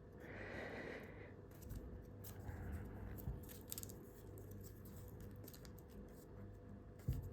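Paper rustling and creasing faintly as an A4 sheet is folded in half, with scattered soft crinkles, over a faint steady hum.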